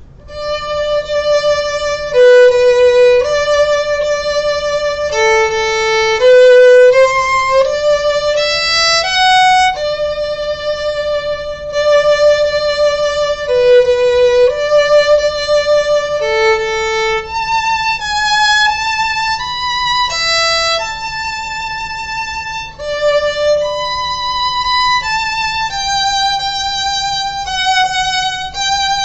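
Background music: a solo violin playing a slow melody one note at a time, with vibrato on the held notes.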